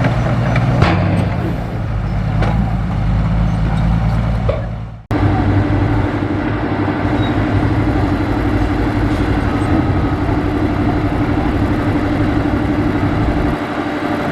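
Heavy diesel machinery running, with a few clanks in the first seconds. About five seconds in the sound cuts off abruptly and another steady diesel engine follows, carrying a constant hum.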